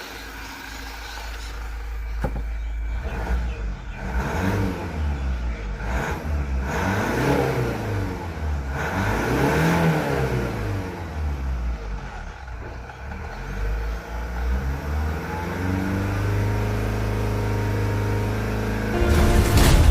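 Mazda CX-5's 2.2-litre four-cylinder turbodiesel engine running, revved up and down several times, then settling back to a steady speed.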